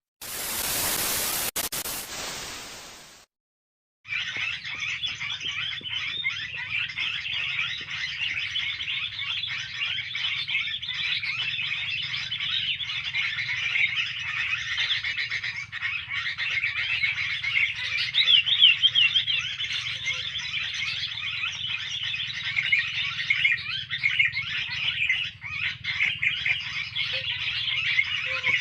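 A dense, continuous chorus of many small birds chirping and twittering over one another, with brief rising and falling calls standing out now and then. It opens with about three seconds of loud hiss, then a short gap before the birds come in.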